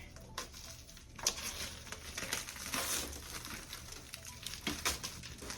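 Packaging of a new toaster oven being handled and pulled apart during unboxing: irregular rustling with a few sharp clicks, picking up about a second in.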